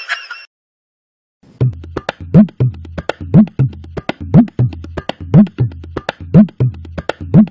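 Comedy percussion loop starting after a short silence: a low drum thump about once a second with quick sharp clicks in between.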